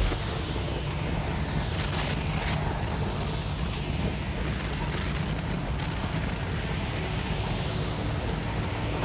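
Steady rumble of a moving vehicle at speed, with wind buffeting the microphone.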